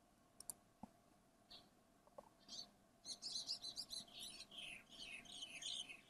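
A bird chirping in the background: a fast run of high, mostly downward-gliding notes from about three seconds in. Before it, a couple of soft clicks about half a second in, such as computer mouse clicks.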